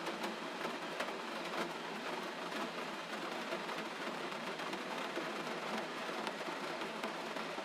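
Gentle rain falling steadily: an even hiss with faint, scattered drop ticks.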